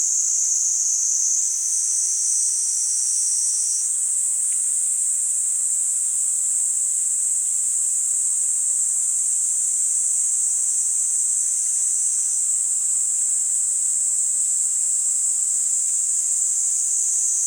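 Chorus of Kaempfer cicadas (niiniizemi) giving their continuous high, thin buzz, several insects overlapping so that the sound shifts a little in pitch a few times as individuals start and stop.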